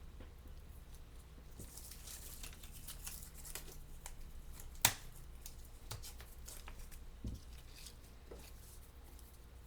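Faint rustling, crinkling and small ticks of paper flowers and vines being handled and set in place, with one sharp tap about halfway through.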